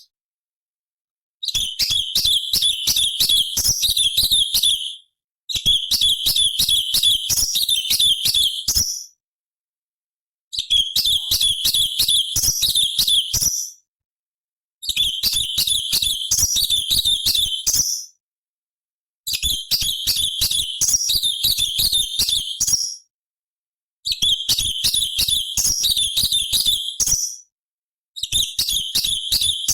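Orange-bellied leafbird (cucak cungkok) singing a rapid, high-pitched chattering song. It comes in bursts of about three seconds, each followed by a pause of about a second, and the pattern repeats about every four seconds.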